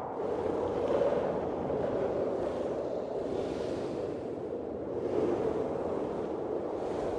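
Blizzard wind blowing in a steady rush that rises and falls in gusts.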